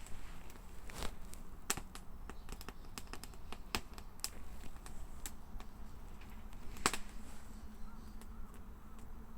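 Wood fire crackling, with irregular sharp pops; the loudest pop comes about seven seconds in.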